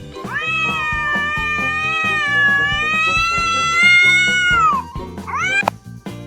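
A cat's long, drawn-out meow lasting about four seconds, followed by a short meow that rises in pitch and cuts off sharply, over background music with a steady beat.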